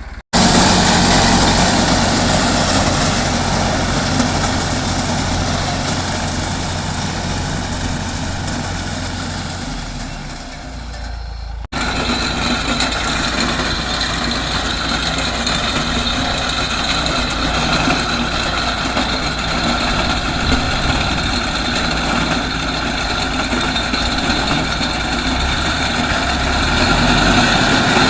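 TAFE tractor's diesel engine running steadily while driving a reaper that cuts sorghum stalks. The sound breaks off abruptly once, about halfway, and resumes.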